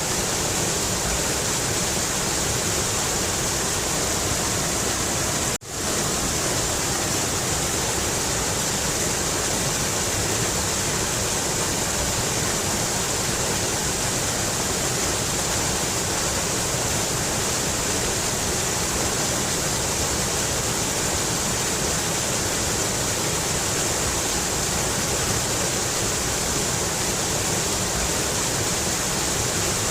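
Mountain river rushing steadily, an even wash of flowing water, with a brief dropout in the sound about five and a half seconds in.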